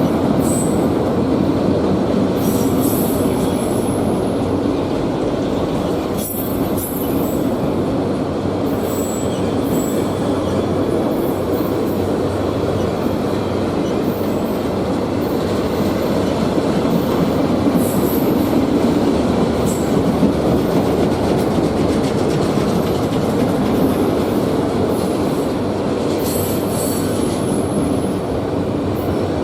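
Autorack freight train rolling past, a loud steady rumble of cars and wheels on rail, with short high-pitched wheel squeals several times.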